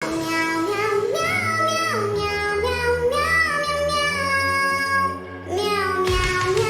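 Music: a high, childlike voice singing a melody in long held notes over a backing track with bass, with a short drop in level about five seconds in.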